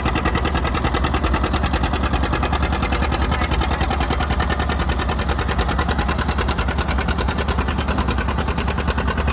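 Modified John Deere 70 two-cylinder diesel tractor engine running hard under full load while pulling the sled, with a rapid, even exhaust beat and a deep rumble that holds steady.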